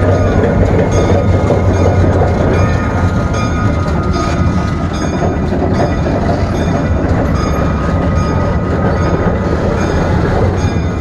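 Diesel locomotive running with a steady low engine drone as it rolls along the track, with faint clicks repeating about once a second.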